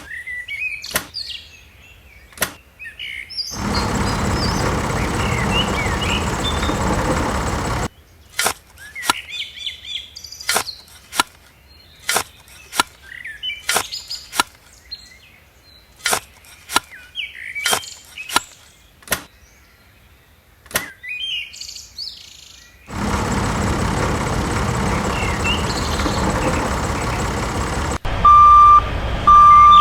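Small birds chirping, broken by many sharp clicks and two long stretches of a steady rushing noise. Near the end an electronic beep starts, sounding about once a second like a vehicle's reversing alarm.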